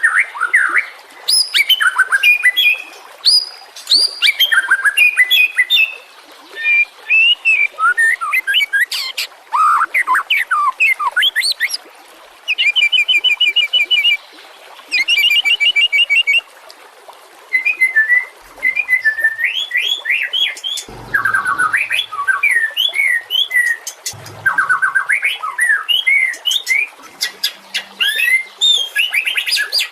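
White-rumped shama (murai batu) singing: a fast, varied run of whistled sweeping notes and rapid trills, delivered in bursts with short pauses between them.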